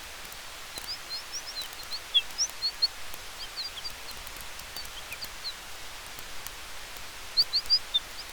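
Steady hiss of a campfire and wind through the trees, with faint crackles, and many short, high bird chirps scattered over it, clustering about a second in and again near the end.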